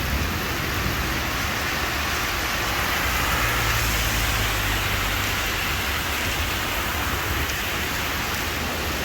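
Heavy rain falling steadily, with a low rumble that swells in the middle.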